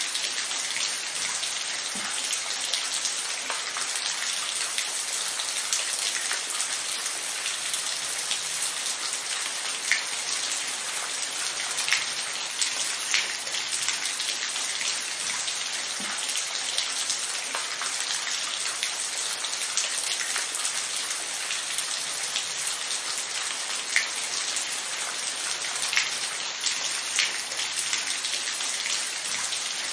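Steady rain falling, a dense even hiss with scattered louder individual drops ticking on a surface.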